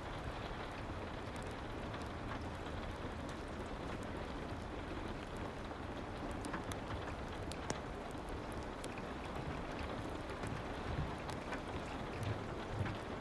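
Soft rain ambience with a fireplace: a steady hiss of rain and a low rumble, with scattered small crackles and pops.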